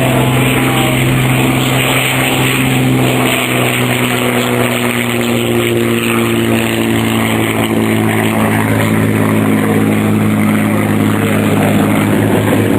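Aircraft engine running steadily on the ground, a continuous droning note whose pitch drifts slowly and rises a little near the end.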